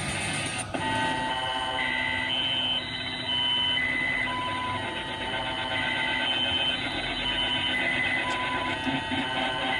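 Electronic noise music: a sequence of short held beeping tones jumping between pitches every half second or so, over a steady noisy hum.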